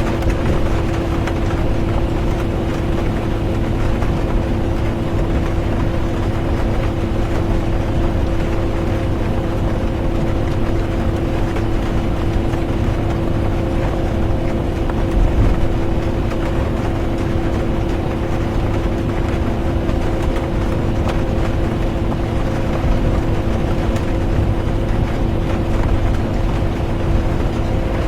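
Bus interior while driving: a steady low engine and road rumble with a constant hum, under an even hiss of rain.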